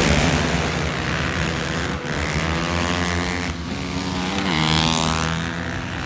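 Racing engines revving hard at high speed, the pitch rising and falling with the throttle, with one clear rise about two-thirds of the way through.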